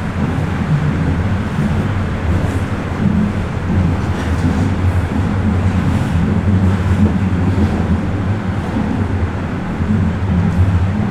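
Bombardier Toronto Rocket subway train running at speed: a steady low rumble with faint ticking over it.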